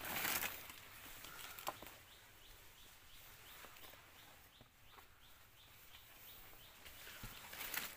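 A bird giving a quick, even series of short chirps, about three a second, over a few soft knocks.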